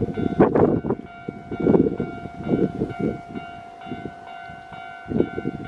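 A Keio Line electric train running through a level crossing, its wheels clattering in repeated irregular surges over the rails, with the crossing's warning bell ringing steadily over it.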